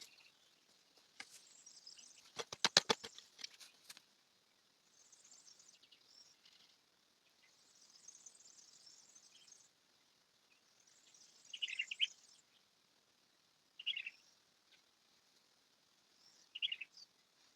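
Faint bird chirps: short high notes come and go, with three louder, short falling calls in the second half. A quick run of clicks comes early, near the three-second mark.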